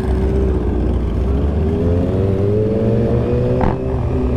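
Motorcycle engine running under way, rising steadily in pitch as it accelerates, then a sharp click a little past three and a half seconds in and the pitch drops.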